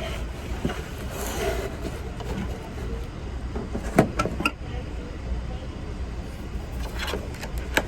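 Steady low rumble of an Amtrak passenger train in motion, heard from inside a sleeper compartment. A sharp click about four seconds in and a few lighter clicks near the end.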